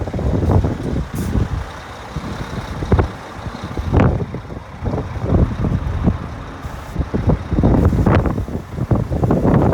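Scania R400 truck's diesel engine running, an uneven loud rumble that surges and eases every second or so.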